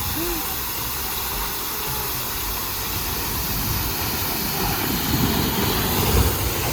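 Steady rushing of water and air over a handheld camera's microphone as the rider plunges down a steep speed water slide. It is a constant, even hiss that begins and ends abruptly.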